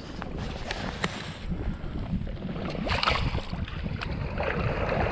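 Wind buffeting the microphone over a steady low rumble on a bass boat on the water, with a few small knocks and a short hiss about three seconds in.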